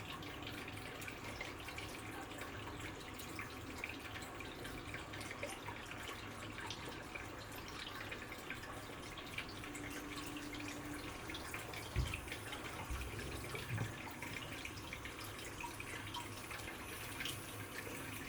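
Water trickling and dripping steadily, with many small drop splashes, and two low thumps about twelve and fourteen seconds in.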